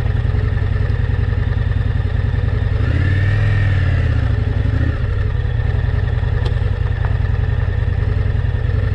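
A 2025 Indian motorcycle's engine running at a steady, even-pulsed idle, with one brief blip of the throttle about three seconds in that rises and falls back to idle.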